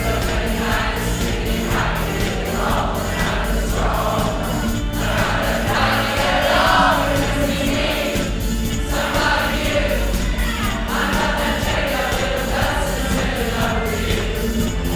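A choir singing over an accompaniment with steady bass notes and a regular beat.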